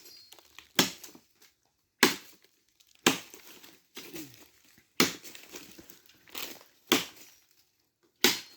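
Wood being chopped: sharp strikes about once a second, each with a short crunching splinter of the old, partly rotten wood.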